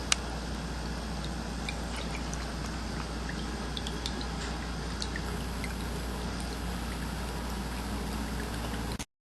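Ceramic cat fountain running: water trickling and dripping steadily, with many small plinks, over a low steady hum. There is one sharp click just after the start, and the sound cuts off suddenly about nine seconds in.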